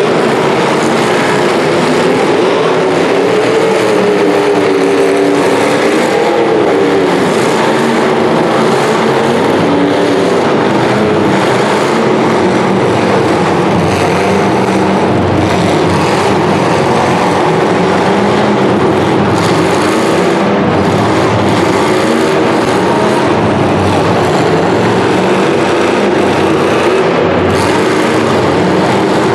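Several demolition derby cars' engines revving hard and unevenly at once, their pitch wavering up and down, with a few sharp knocks along the way.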